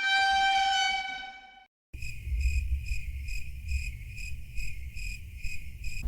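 A steady horn-like tone that fades out within the first two seconds. Then, after a brief dead cut, crickets chirp in an even rhythm of about two or three chirps a second over a low rumble.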